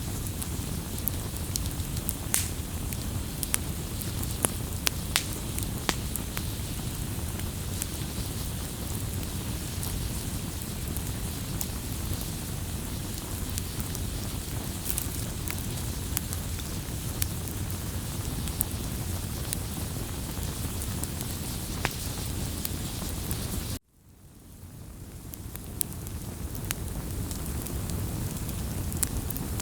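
Wood campfire crackling, with scattered sharp pops over a steady low rumble of burning. Near the end it cuts out suddenly, then fades back in over a few seconds.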